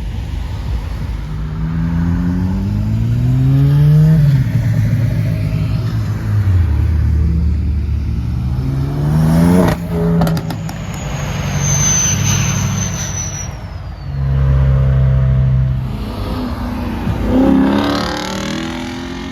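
Car engine revving several times, the pitch climbing with each rev and dropping back to a low idle between. Sharp pops come about ten seconds in, followed by a high whine that slides down.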